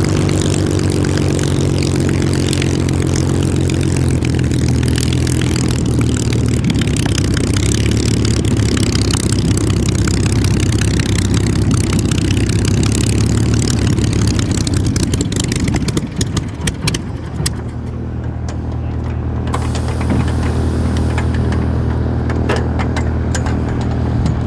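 Supermarine Spitfire's Rolls-Royce Merlin V12 piston engine running steadily. About two-thirds of the way through, the sound briefly breaks up and turns duller before settling again.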